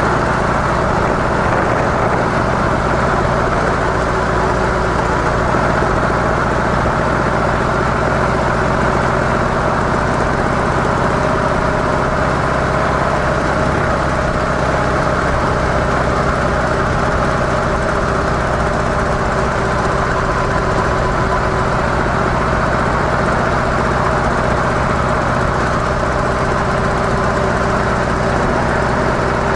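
Harley-Davidson CVO Softail Deluxe's air-cooled V-twin running steadily through stock mufflers, its pitch holding nearly constant.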